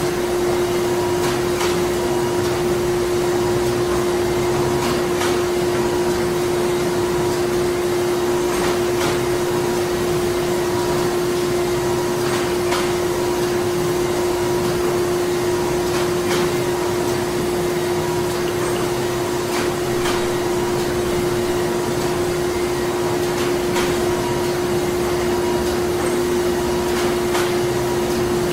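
Printing-factory machinery running continuously: a steady hum over an even mechanical noise, with faint clicks at irregular intervals.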